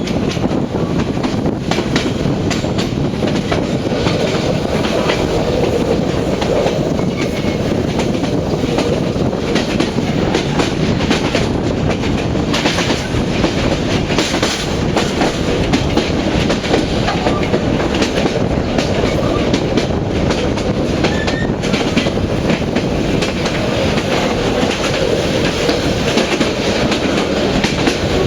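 Passenger train running along the track: a steady loud rumble of wheels on rails with clickety-clack over the rail joints.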